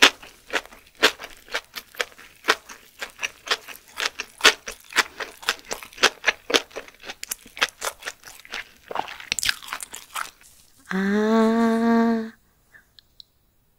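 Close-miked chewing of a seaweed-wrapped sushi roll: quick, crisp crunches, two or three a second, until about ten seconds in. Then a hummed 'mmm', rising briefly in pitch, lasts about a second and a half.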